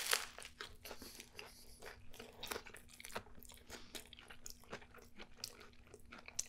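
A crunchy bite into a large crispy-chicken and onion-ring sandwich right at the start, then close-miked chewing with many short, crackly crunches.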